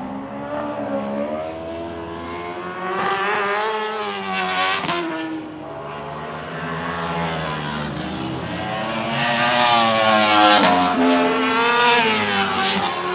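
World Superbike racing motorcycles running at high revs, the engine pitch rising and dropping again and again through gear changes. It swells loudest about four to five seconds in and again around ten to twelve seconds in.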